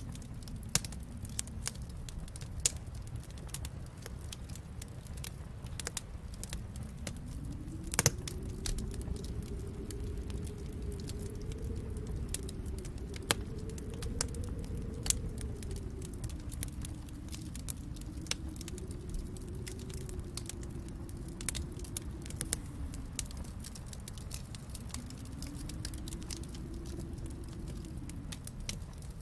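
Wood fire crackling, with irregular sharp pops and snaps over a low steady rumble. The loudest pop comes about eight seconds in.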